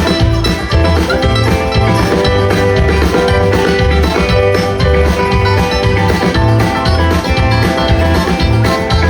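Live band playing an instrumental passage with plucked strings over a steady, pulsing bass line, in a country or bluegrass style.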